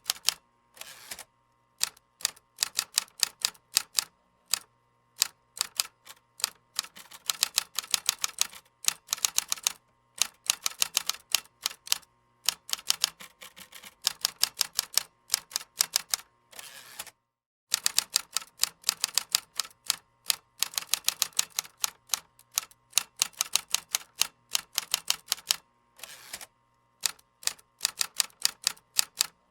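Computer keyboard typing: quick runs of keystroke clicks broken by short pauses, with one clear stop a little over halfway through before the typing resumes.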